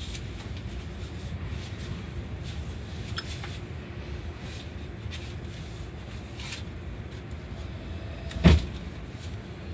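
A steady low rumble with a few faint clicks, and one loud knock a little over a second before the end.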